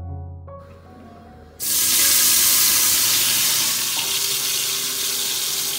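Chopped tomatoes tipped into hot oil in a pressure cooker pot: a sudden loud sizzle about a second and a half in, slowly easing off.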